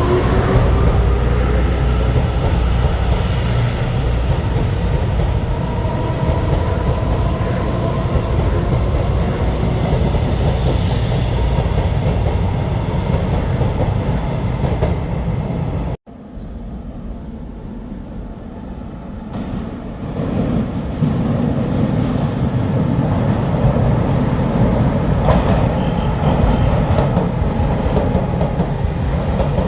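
Electric passenger train running through a station, with the steady noise of its wheels on the rails and a whine rising in pitch at the start. About halfway through there is an abrupt cut to a quieter train sound, which then grows loud again.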